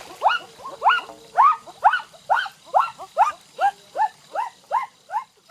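An animal calling in a rapid series of short upward-sweeping yelps, a little over two a second, each curving over at the top. The calls are loudest early on and drop slightly in pitch toward the end.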